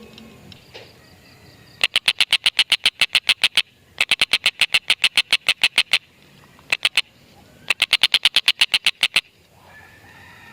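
Tengkek buto giving its rapid chattering 'ngekek' call: fast trains of sharp, high 'kek' notes, about eight a second, in several bouts of one to two seconds each, with one short burst of three notes in the middle.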